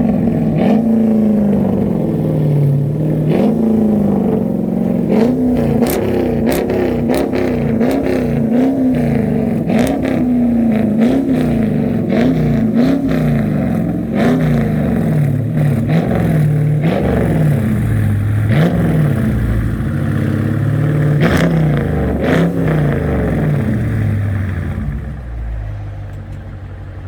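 Dodge Charger R/T's 5.7 L Hemi V8 through an aftermarket Flowmaster exhaust, revved in quick throttle blips, roughly one a second, with scattered sharp cracks. About 25 seconds in it drops back to a steady idle.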